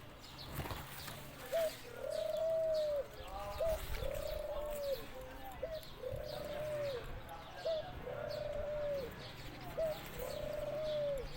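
A dove cooing: five repeated calls, each a short note followed by a held coo that drops at the end, about every two seconds. Faint high chirps of small birds sound behind it.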